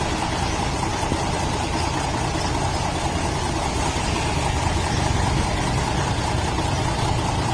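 Construction machine's engine running steadily.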